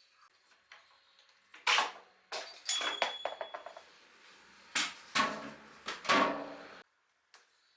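Metallic clanks and knocks in several loud bursts, with a short run of quick ticks in the middle, then an abrupt stop.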